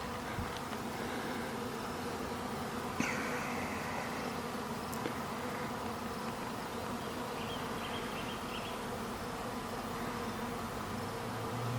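Honey bee swarm buzzing steadily as the bees walk into a hive box, a sign the swarm is settling into its new home. A brief click about three seconds in, and a lower steady hum joins near the end.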